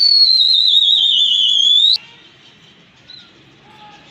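A pea whistle blown in one long, loud, warbling blast of about two seconds. The pitch dips slowly, then rises sharply just before it cuts off. A few faint bird chirps follow.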